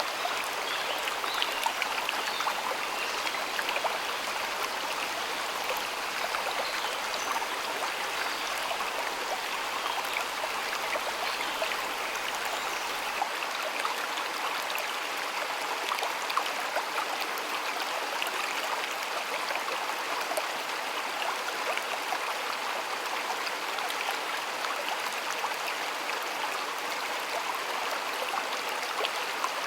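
Stream water flowing steadily, babbling and splashing over stones.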